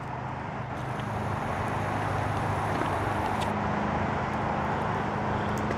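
Steady hum of distant road traffic, an even wash of noise with a low drone underneath.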